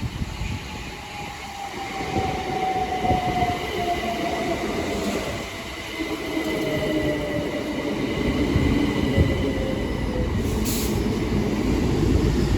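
Southeastern Class 377 Electrostar electric multiple unit braking into a station, its whine falling steadily in pitch as it slows, over the rumble of wheels on rail. A little wheel slip as it comes in.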